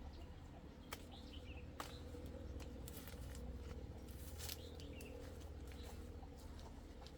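Faint bird chirps, short squiggly calls repeating now and then, with two sharp clicks about one and two seconds in, over a steady low rumble.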